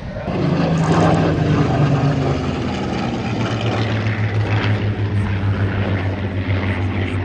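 Propeller aircraft droning as it passes, its pitch dropping about two seconds in, then holding a steady low drone.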